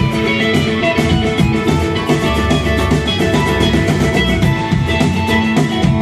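Live band playing an instrumental passage with no vocals: guitars and mandolin over bass guitar and a steady drum beat.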